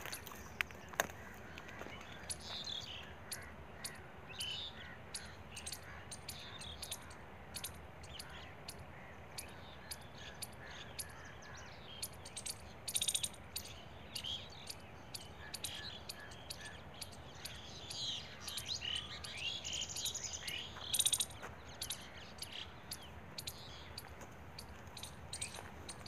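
Birds calling: scattered chirps and short calls, busiest twice, over a steady background hiss, with many sharp clicks throughout.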